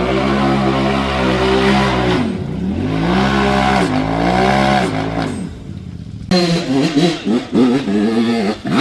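Off-road vehicle engine revving hard under load, its pitch rising and falling repeatedly, with deep drops about two and five seconds in. It fades after about five and a half seconds and then gives way to short, choppy revs near the end.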